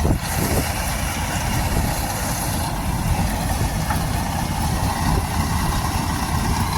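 Combine harvester engine running steadily while it cuts wheat, a constant low drone.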